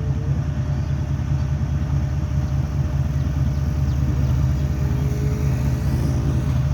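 GEU-40 diesel-electric locomotive's engine running hard with a deep, steady, rapidly pulsing throb as it pulls a train away from the station.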